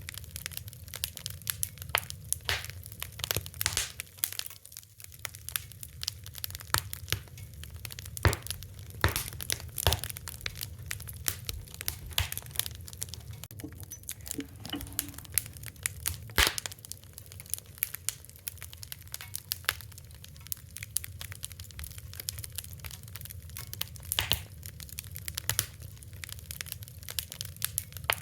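Wood fire crackling: irregular sharp pops and snaps, a few louder ones, over a steady low hiss of burning.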